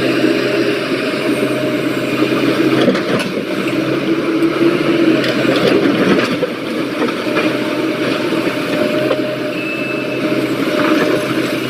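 Heavy diesel construction machinery running steadily, with a low hum under a dense engine noise, and a few short knocks about three to six seconds in.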